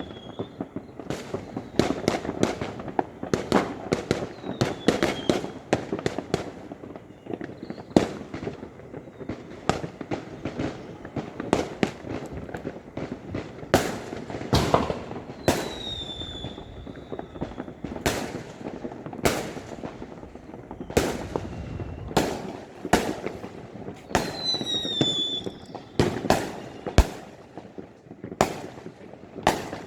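Fireworks going off: dozens of sharp bangs at irregular intervals over a continuous rumble of more distant bursts, with a few short, high whistles that fall slightly in pitch.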